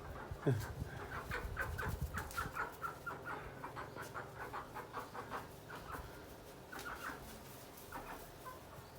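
Chickens clucking in a rapid run of short repeated calls for about five seconds, then a few scattered clucks.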